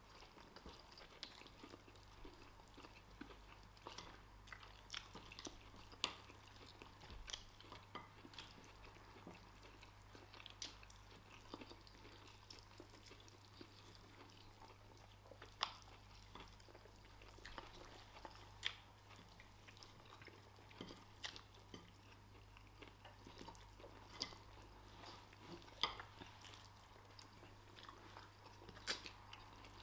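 People chewing and eating rice, fried plantain and chicken, with scattered small clicks and mouth smacks every second or so. A faint steady hum lies underneath.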